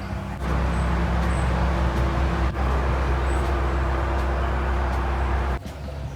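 Steady engine drone of a narrowboat running, a low hum with a few held tones. It jumps louder about half a second in and drops back suddenly near the end.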